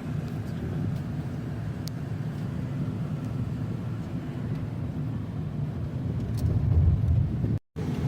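Vehicle driving on the road, its engine and road noise a steady low rumble. The rumble swells louder shortly before cutting out abruptly near the end.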